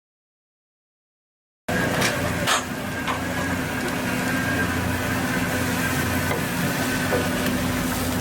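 Dead silence for under two seconds, then a steady, loud machine-like drone with a constant hum and a couple of faint clicks.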